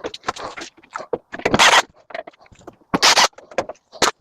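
Sheet-metal clicks and scrapes as a microwave oven's casing is worked apart by hand. There are many short clicks, with two louder scrapes about a second and a half in and again about three seconds in.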